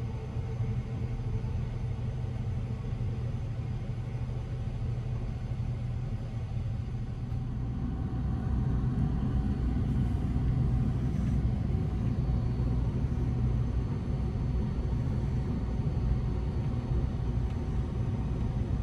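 Steady low rumble of the Sunrise Seto sleeper train (a 285 series electric train) running, heard inside a sleeping compartment, growing louder about eight seconds in.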